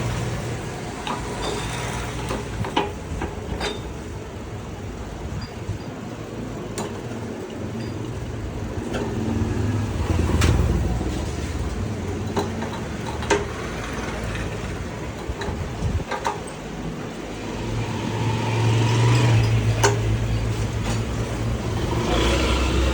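A motor vehicle engine running, getting louder about ten seconds in and again near the end, with scattered clicks and knocks over it.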